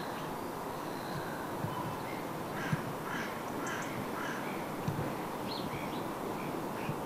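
Birds calling: a scattered series of short calls over a steady background hiss.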